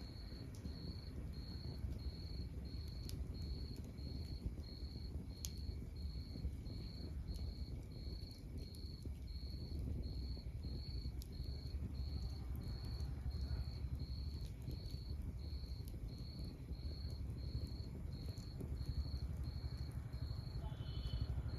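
Log fire burning with a low steady rumble and scattered sharp crackles, while a cricket chirps steadily in a high pitch, about twice a second.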